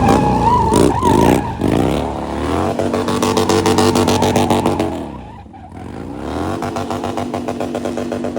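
Motorcycle engine revved hard: the pitch climbs and holds high, drops briefly about halfway through, then climbs and holds again.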